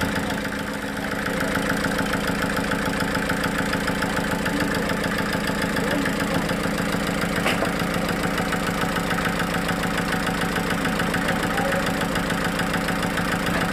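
A sawmill's engine running steadily with an even, unchanging beat.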